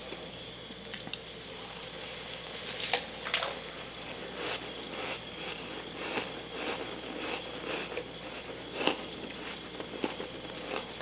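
Close-up chewing of soft freezer frost in the mouth: a run of crackly crunches, about two a second, with a few louder, sharper crunches.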